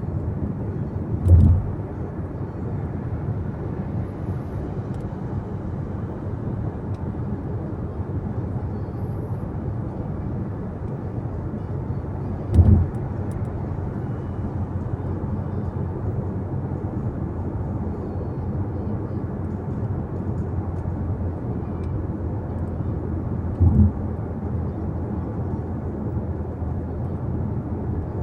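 Car driving: a steady drone of road and engine noise, broken by three short low thumps about eleven seconds apart.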